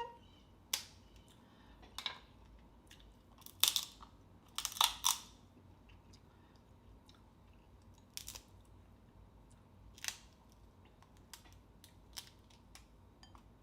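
Crab shells cracking and snapping by hand, in a string of sharp cracks with the loudest cluster about four seconds in, amid quieter chewing.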